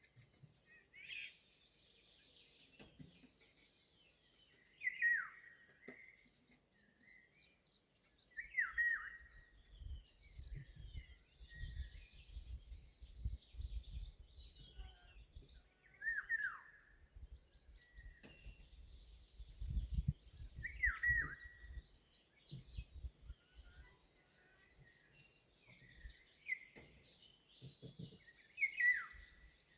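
Birdsong: one bird repeats a short call that falls in pitch, about every four to eight seconds, over a steady chorus of other small birds singing. A low rumble, like wind on the microphone, runs through the middle stretch.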